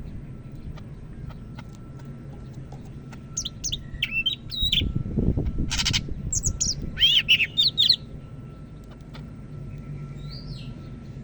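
Greater green leafbird (cucak ijo) singing a burst of loud, quick whistled phrases that sweep up and down, with a harsh rasping note in the middle. The song starts a few seconds in and stops about eight seconds in; one faint call follows near the end.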